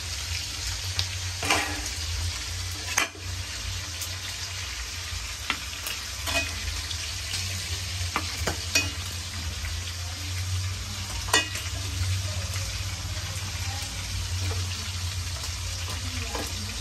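Sausage pieces frying in hot oil in a small stainless steel pot: a steady sizzle with sharp pops and clicks every second or two, as the oil spatters and pieces are lifted out onto a plate.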